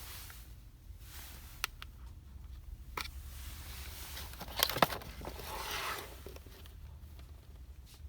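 Close-up handling of store-bought items and their packaging: scattered light taps and clicks, a sharp cluster of clicks about halfway through, then about a second of plastic packaging crinkling.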